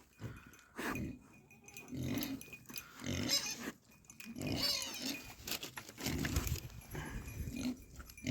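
Farm animals making a string of short grunts and calls while fed scraps.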